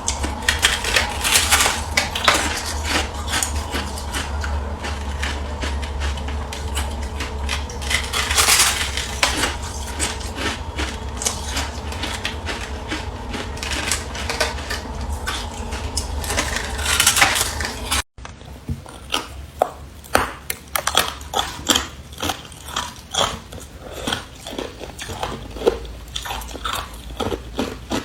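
Carbonated ice being bitten and crunched close to the microphone: dense crackling and clicking over a low hum, then, after a sudden break about two-thirds of the way in, separate crisp crunches.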